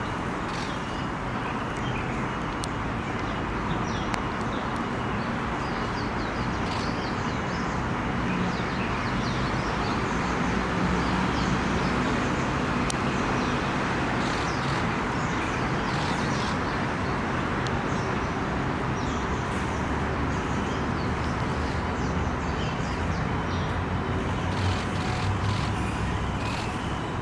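Steady city traffic noise, with short high chirps of small birds scattered through it.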